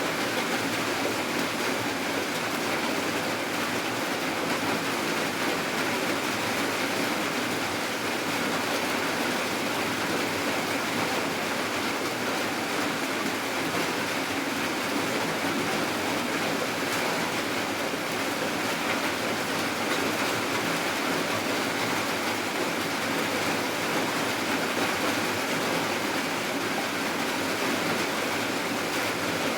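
Steady heavy rain falling at night, an even, unbroken hiss with no single drops or thunder standing out.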